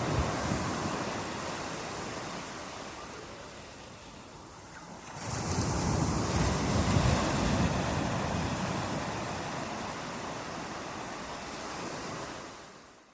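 Ocean surf: a wave surges in about five seconds in and slowly washes back out, and the sound fades out near the end.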